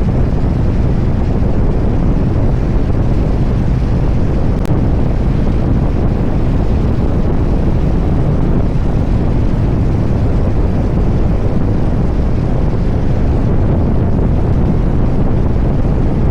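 Wind rushing over the microphone on a moving motorcycle, with the 2023 Harley-Davidson Street Bob's Milwaukee-Eight 114 V-twin running steadily underneath at cruising speed. The noise is loud and unbroken.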